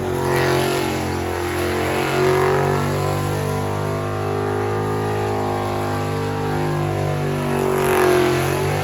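Vehicle engine running hard, its pitch drifting up and down as it revs, with louder swells about half a second in and again near the end.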